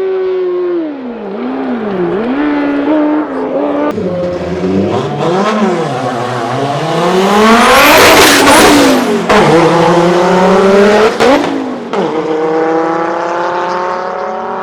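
A hillclimb race car's engine revving hard through the gears as it goes by, its pitch dropping and climbing again several times in the first half, loudest about eight seconds in as it passes, then rising again as it accelerates away with a gear change.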